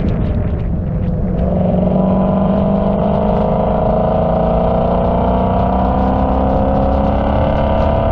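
Car engine pulling steadily under acceleration, its pitch rising slowly and evenly through a long stretch in one gear over a deep exhaust rumble.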